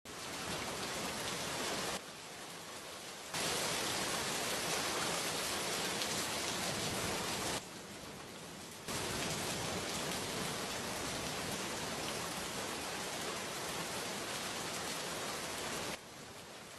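Steady heavy rain. It drops abruptly to a quieter level three times for about a second or so each: about two seconds in, about eight seconds in, and near the end.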